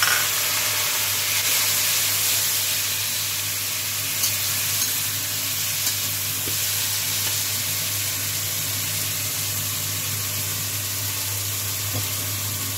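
Masala sizzling steadily in a steel kadai after a splash of water, stirred with a metal spatula that now and then ticks against the pan. The masala is cooking down.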